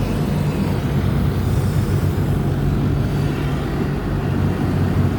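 Automatic tunnel car wash machinery running, heard from inside the car: a steady low hum with an even rush of noise over it.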